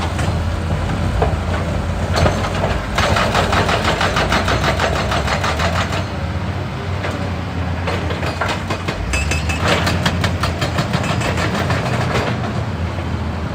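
Hitachi EX200 excavator's diesel engine running steadily while a hydraulic breaker hammers rock in two bursts of rapid, evenly spaced blows, each about three seconds long, starting about three and nine seconds in.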